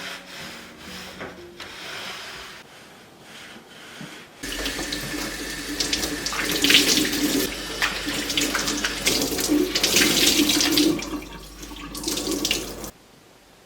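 Kitchen sink faucet turned on about four seconds in, water running into the sink with uneven splashing for about eight seconds, then shut off abruptly. Faint music plays before the water starts.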